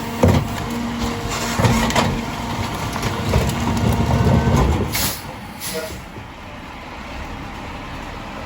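Mack LR rear-loader garbage truck working: engine and hydraulics running with several knocks and clanks, then two short hisses of air about five seconds in, after which it is quieter.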